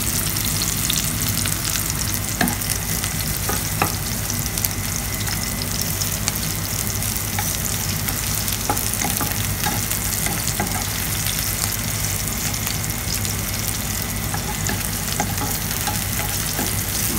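Sliced onion, ginger and garlic sizzling in hot oil in a pan, stirred with a wooden spatula, a steady frying hiss with scattered light clicks as the spatula moves.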